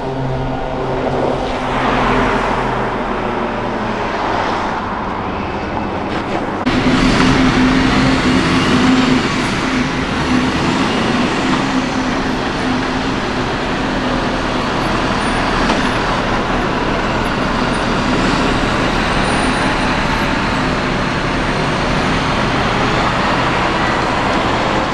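Heavy military truck engines running. About a quarter of the way through the sound cuts abruptly to a louder truck with a steady low drone over road noise.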